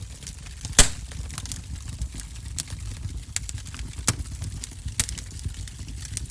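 Fire in a fireplace crackling, with irregular pops and snaps over a low rumble of flame. One loud pop comes just under a second in.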